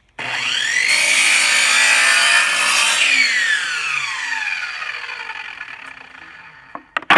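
Electric chop saw starting with a rising whine and cutting through a composite decking board, then released and coasting down, its blade whine falling steadily over about four seconds as it spins down.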